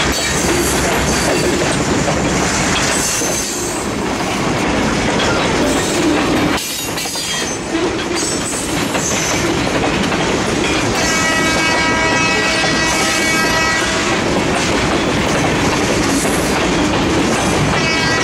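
Loaded stone-train hopper cars rolling by, with a steady heavy rumble and wheel clatter that dips briefly about a third of the way in. In the second half, steady high tones sound over it twice, for a few seconds each.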